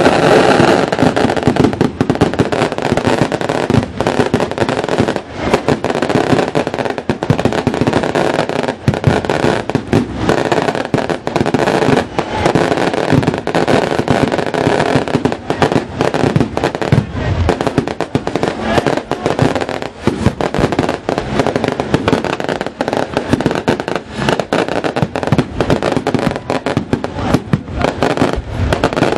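Fireworks and firecrackers going off in a dense, unbroken run of bangs and crackles.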